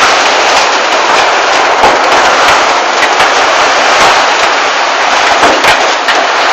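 Heavy monsoon rain pouring down, loud and steady, with many sharp drop hits close by.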